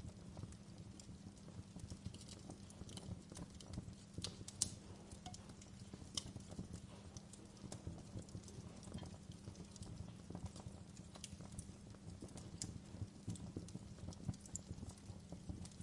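Wood fire burning in a fireplace: a steady low rumble with irregular crackles and snaps, two sharper pops about four and a half and six seconds in.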